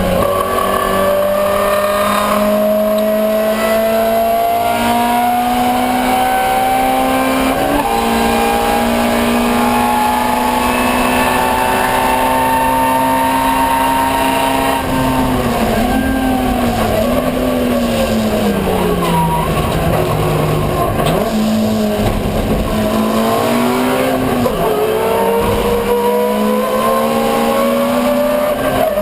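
Ford Escort 1300GT race car's 1.3-litre four-cylinder engine at high revs. Its pitch climbs steadily through a long pull with a quick gearshift about eight seconds in, then falls and wavers for several seconds past the middle before climbing again near the end.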